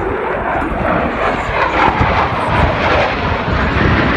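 F-16 fighter jet flying past, a loud rushing jet-engine roar that swells over the first couple of seconds and holds.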